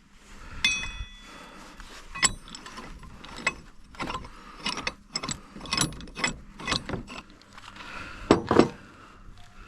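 Steel hand tools being worked, a ball joint press among them: irregular metal clicks and clinks, with a louder pair of knocks about eight and a half seconds in.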